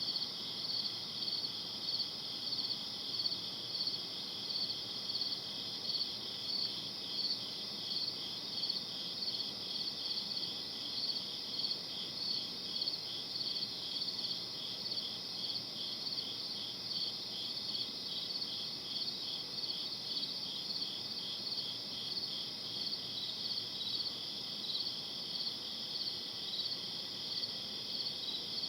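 Crickets chirping in a steady night chorus: a high, continuous trill with a regular pulse about twice a second.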